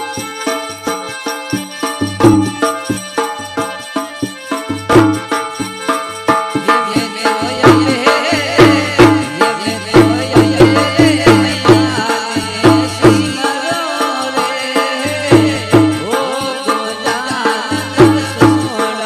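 Indian folk garba music: a steady, driving drum beat with tambourine-like jingles under a sustained melody that grows fuller and more ornamented about a third of the way in.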